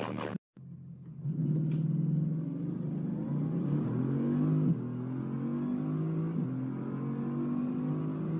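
Bugatti's W16 engine under hard acceleration, heard from inside the cabin, its note climbing and then dropping back in steps as it shifts up through the gears.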